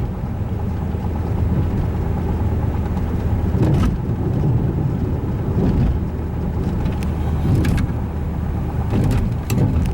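Fiat Linea running: a steady low vehicle rumble, with a few light clicks or knocks.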